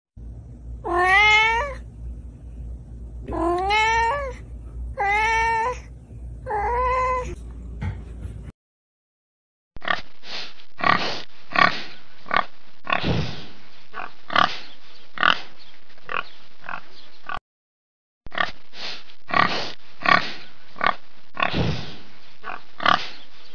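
Kittens meowing: four short mews rising and falling in pitch over a low hum in the first eight seconds. After a short pause, wild pigs grunt rapidly and repeatedly in two long runs, broken by a brief gap near the end.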